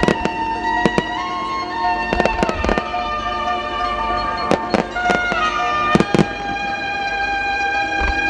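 Aerial fireworks shells bursting in about a dozen sharp, irregularly spaced bangs over music of long held notes that step from pitch to pitch.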